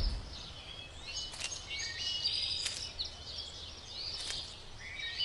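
Wild birds singing, with many short chirps and whistled notes overlapping, over a faint low rumble.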